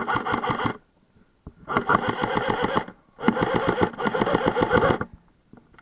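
Airsoft electric gun firing on full auto: three bursts of rapid, even clicks, a short one and then two longer ones of about a second and a half each.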